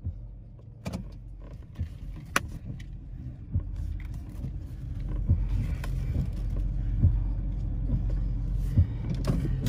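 A car engine running with a low, steady rumble that grows louder a few seconds in, with scattered clicks and knocks over it.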